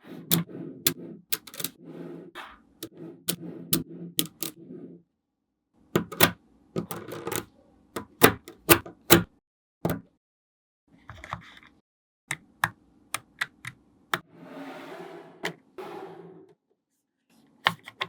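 Small magnetic balls clicking as they snap together and are handled: irregular runs of sharp clicks over a softer rattle, with a couple of brief pauses.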